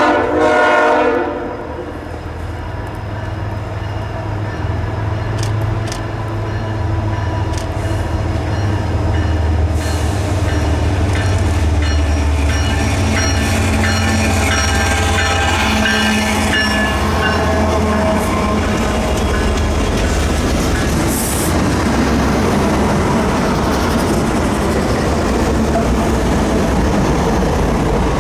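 Freight train passing: a short blast of the locomotive horn at the start, then the deep rumble of the diesel locomotives and the clatter of wheels on rail building up over the first ten seconds or so and holding steady as the cars roll by.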